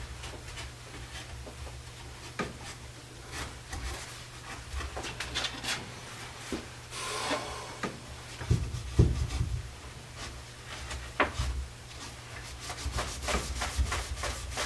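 Wooden chair parts being handled and rubbed, with scattered knocks and clicks and a short scraping stretch about halfway through, over a steady low hum.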